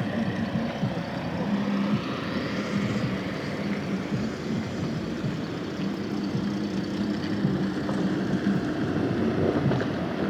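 A motor vehicle engine running with a steady low hum over a noisy background.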